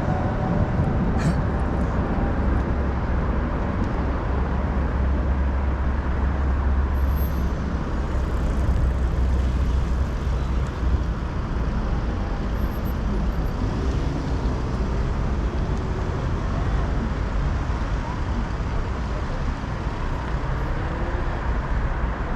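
City street traffic noise: a steady low rumble of passing road vehicles, heaviest for several seconds in the first half.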